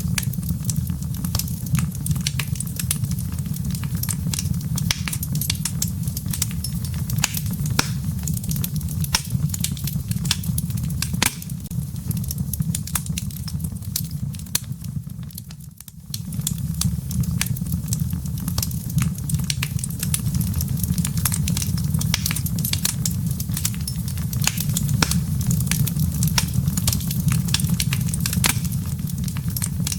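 Fireplace wood fire crackling: many sharp pops and snaps of burning embers over a steady low rumble of flame. The sound dips briefly about halfway through, then comes back.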